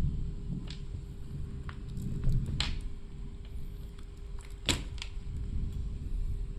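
Hands handling the parts of a Dremel 4000 rotary tool during disassembly: low rubbing and rumbling handling noise with a few small clicks, and one sharper click a little under five seconds in.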